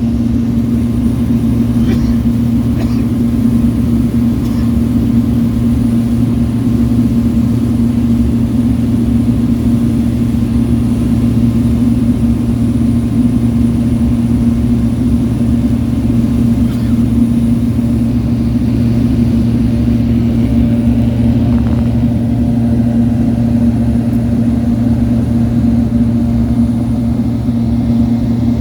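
Cessna 208 Grand Caravan's Pratt & Whitney PT6A turboprop engine and propeller droning steadily, heard inside the cabin. A strong, even hum sits over a low rumble, with no change in pitch or power.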